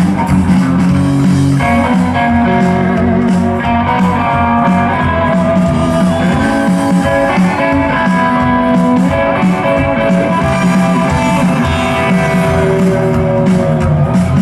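Live rockabilly band of electric guitar, upright bass and drums playing a song's instrumental intro, heard as a concert recording. A steady bass-and-drum groove runs underneath, and a sustained lead guitar line enters about a second and a half in.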